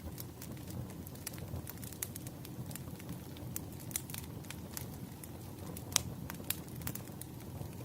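Fireplace fire crackling: a steady low rumble of flames with frequent sharp pops and snaps at irregular moments, the loudest pop about six seconds in.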